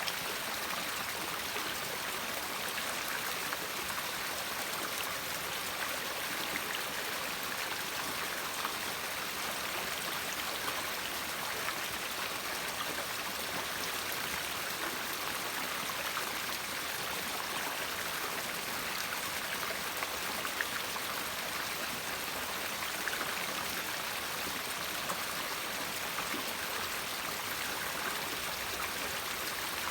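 River water flowing in a steady, even rush, with no pauses or changes.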